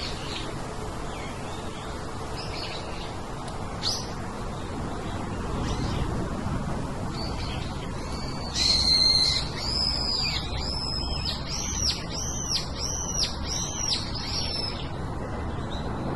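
Songbirds chirping; about halfway through one bird sings a loud phrase, then repeats a short note about twice a second for several seconds.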